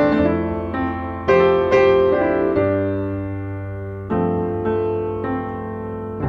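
Background piano music: a slow run of single notes and chords, each struck and left to ring out.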